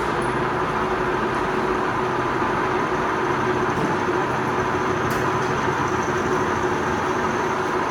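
Lathe running, a steady mechanical noise with a faint steady hum and a thin high whine.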